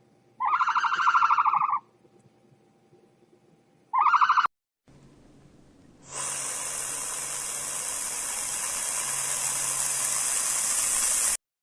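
Two short pitched animal calls, the first longer than the second, followed by about five seconds of steady hissing that grows slightly louder and cuts off suddenly.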